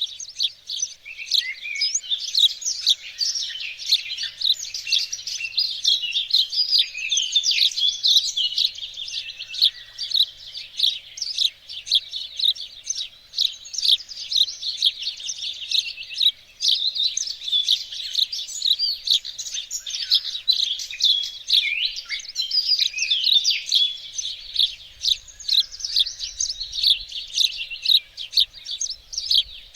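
Several songbirds singing and chirping at once, a dense, continuous chorus of quick high notes.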